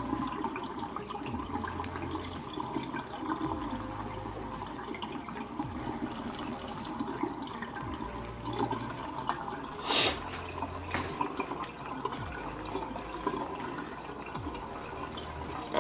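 Water draining and trickling out of the bottom of a freshly soaked potted bird of paradise, a sign the soil is saturated. A short knock about ten seconds in.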